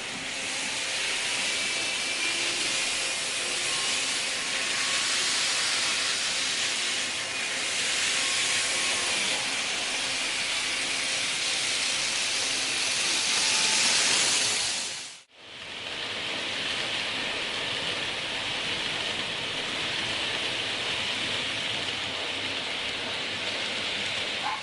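N-gauge model trains running on track: a steady rolling hiss from the wheels with a faint motor whine. The sound drops out abruptly for an instant about 15 seconds in, then carries on.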